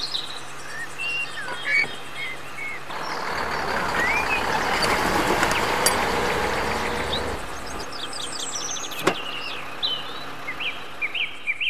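Small birds chirping, with a rushing noise that swells and fades for a few seconds in the middle and a single sharp click near the end.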